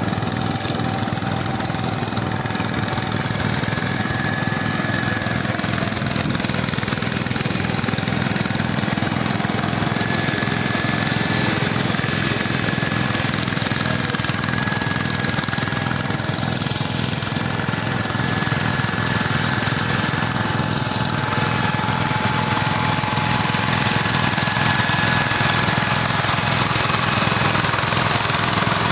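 Tractor's diesel engine running steadily under working load, its firing pulses continuous, growing slightly louder in the latter part.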